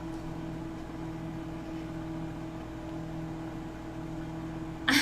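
Microwave oven running with a steady hum, partway through a two-minute heating cycle.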